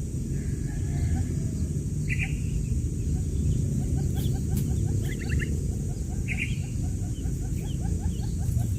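Quail chicks peeping: short high chirps every couple of seconds, joined about three seconds in by a fast run of low chirps, about five a second. A loud, steady low rumble runs underneath.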